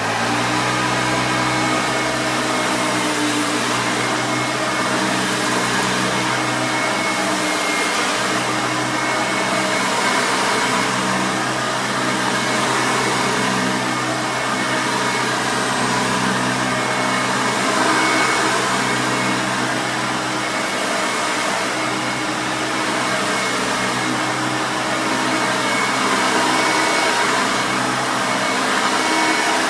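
1989 Hoover Elite 350 upright vacuum cleaner running steadily while vacuuming carpet: a steady whine over rushing air.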